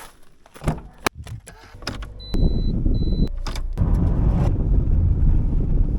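A car being got into and started: a few clicks and knocks, two short high beeps like a car's warning chime, then the engine starts and keeps running with a steady low rumble.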